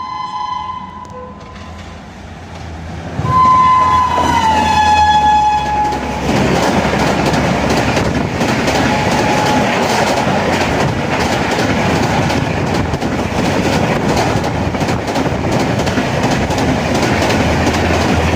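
WAP-7 electric locomotive blowing its shrill horn as it runs through at about 130 km/h. About three seconds in the horn sounds for roughly three seconds, its pitch dropping as the locomotive passes. The Rajdhani's coaches then rush past with a steady clatter of wheels over the rail joints.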